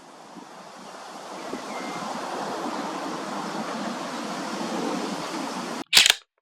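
Steady rushing outdoor background noise that fades in over the first couple of seconds, then cuts off near the end with one brief loud crackle.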